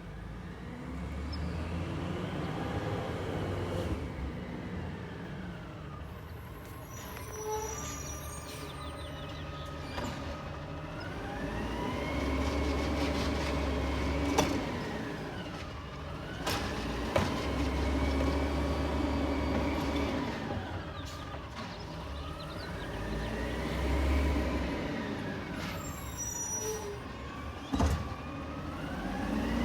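Peterbilt 320 garbage truck's diesel engine revving up and back down about every five seconds, as it does when running the truck's hydraulics. A few sharp metallic clanks come in between.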